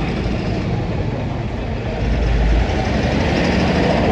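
Road traffic noise: vehicle engines running, with a steady low rumble that swells slightly after about two seconds.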